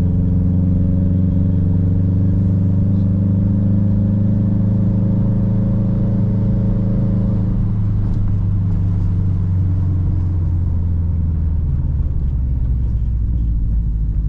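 Modified car's engine running steadily under light load while driving, heard from inside the cabin. About halfway through its higher tones fade away and only the low engine drone and road noise carry on.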